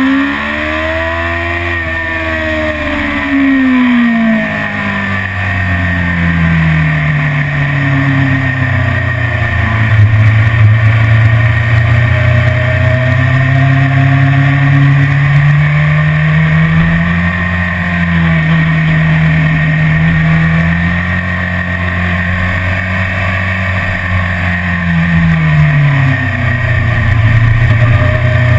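BMW S1000RR's inline-four engine on track, its revs rising and falling repeatedly through the gears and corners, with a sudden drop and quick rise again near the end, over a steady rushing noise.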